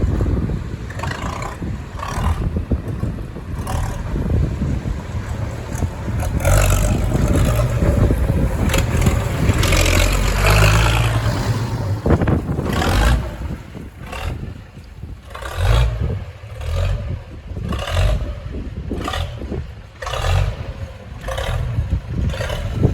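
Nuffield 690 tractor's six-cylinder engine running as it is driven, with revs rising and falling around the middle and irregular knocks and clatter throughout.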